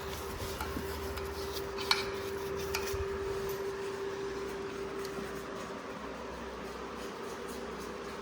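Light metallic clinks and rubbing, with one sharp clink about two seconds in, over a steady hum.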